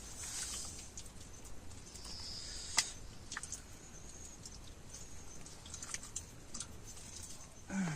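Quiet eating sounds, small clicks and rustles of someone chewing, with one sharper click about three seconds in, over a faint steady high hiss of night insects.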